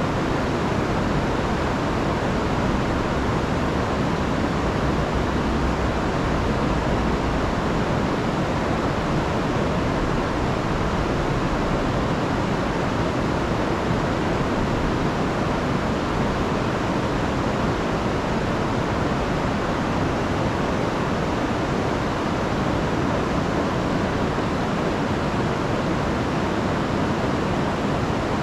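A rain-swollen river rushing and tumbling over rapids or falls in a steady, loud roar, with its energy weighted toward the low end.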